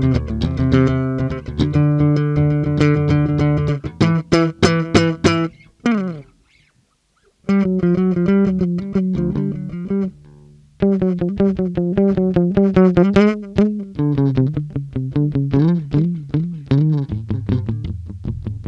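Harley Benton MB-4 electric bass played solo: plucked, held notes, two brief pauses, then faster phrases with some bent notes, the playing growing quieter near the end.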